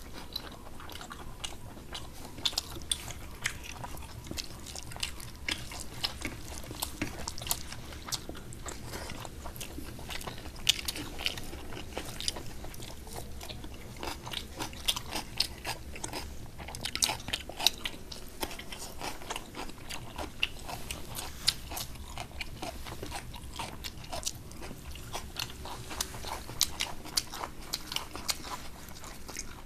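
Close-miked chewing and mouth sounds of two people eating rice and curry by hand: many small wet clicks and smacks, with fingers mixing rice on the plates.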